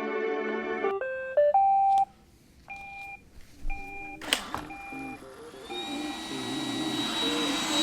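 Music ends about a second in, then a Roomba robot vacuum plays a short rising start-up tune and beeps several times about once a second. After a click its motors spin up into a whir with a thin steady whine that grows louder toward the end.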